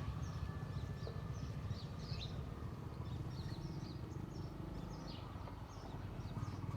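Small birds chirping: many short high chirps scattered throughout, over a steady low rumble.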